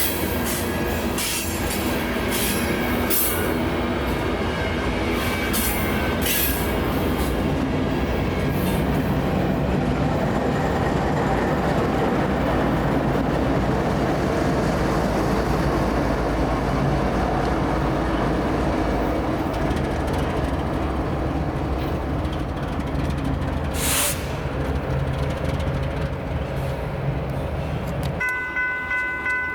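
Freight train passing close by: a steady rumble of diesel locomotive engines and rolling railcars, with sharp clacks of wheels over rail joints that die away after several seconds. Near the end the train sound cuts off and a bell-like ringing takes over, pulsing about twice a second.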